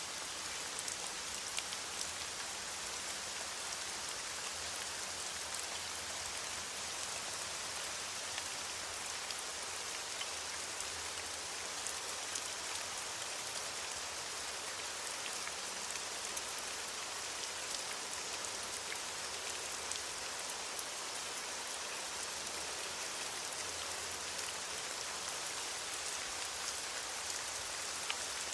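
Steady rain falling on leaves: an even hiss full of fine drop ticks.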